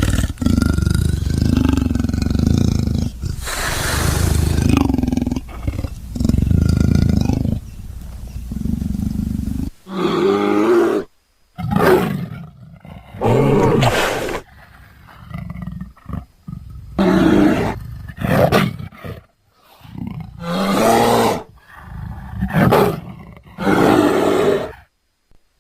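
Designed creature vocalisations built from leopard and bear recordings: a long, deep growling roar for the first ten seconds or so, then about seven separate roars of around a second each, with short pauses between them.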